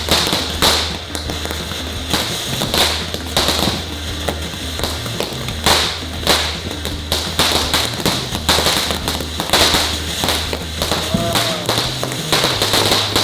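A "Silver Rain" consumer firework going off: a steady hiss with irregular sharp pops and cracks, several a second.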